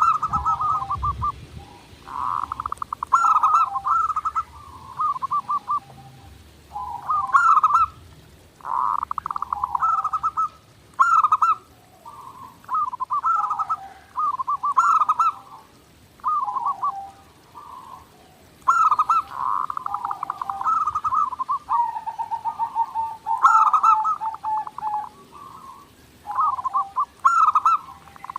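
Zebra doves (perkutut) cooing: repeated phrases of fast, rolling coo notes, each lasting a second or two, one after another with short gaps.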